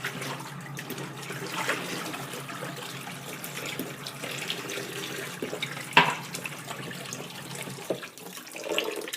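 Kitchen sink tap running, water splashing as a jar of green onions has its water changed, with a sharp knock about six seconds in and a lighter one near the end; the water stops at the very end.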